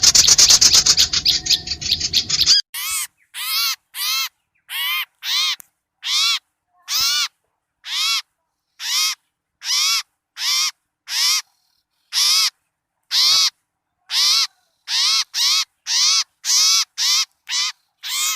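Recorded small-bird lure calls: a dense, rapid chatter for the first couple of seconds, then a run of harsh, short calls repeated evenly about one and a half times a second, each rising and falling in pitch.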